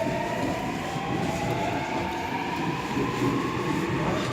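Seoul Metro Line 7 subway train accelerating: the electric traction motors' whine rises steadily in pitch over the rumble of the wheels on the track.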